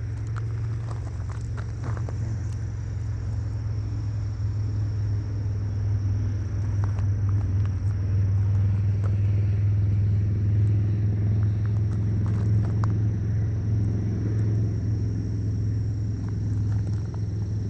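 Low, steady engine rumble that swells to its loudest about halfway through, then eases a little.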